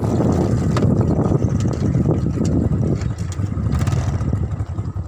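Vehicle running along with its engine rumbling and wind buffeting the microphone, easing off about three seconds in.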